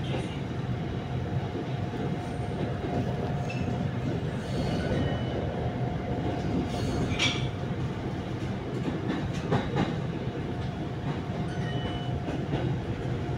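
Cabin sound of an SRT Red Line electric commuter train running: a steady rumble of wheels on the track with a steady hum over it, and a few sharp clacks over rail joints about seven and nine and a half seconds in.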